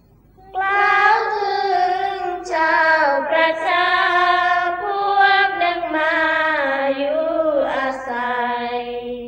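A high voice singing a long, drawn-out melismatic phrase in Thai-Isan sorapanya chant style. The notes are held and gently bent, and the pitch steps slowly downward toward the end.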